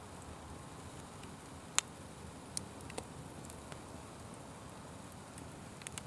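Fire burning with a steady low hiss and scattered sharp crackles and pops, the loudest pop about two seconds in.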